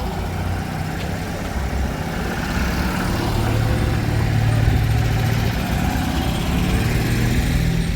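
A vehicle engine running at low speed, a low steady hum that swells louder for a few seconds around the middle.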